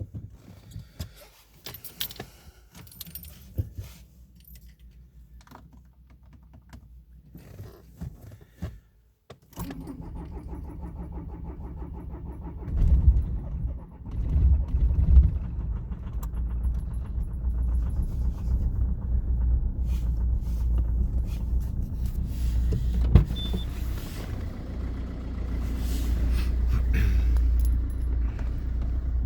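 Keys jingling at the ignition, then the Peugeot 406 2.0 HDi's four-cylinder diesel is cranked by the starter. It catches with uneven surges and runs on roughly, growing slowly louder. This is a hard cold start at −1°C despite new glow plugs.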